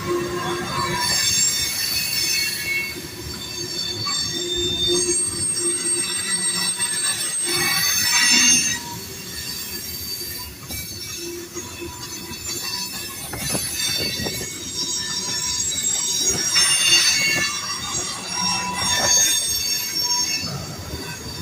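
Freight train's cars rolling past, their steel wheels squealing on the rail in several high, ringing tones that come and go over a steady rumble and clatter.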